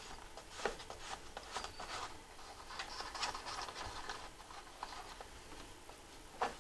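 Faint clicks, taps and rustling of hands taking the air cleaner cover and filter off a lawn tractor's engine, with a sharper click near the end.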